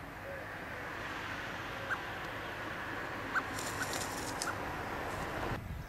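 A few short, single bird call notes, spaced a second or so apart, over a steady background hiss that cuts off suddenly just before the end.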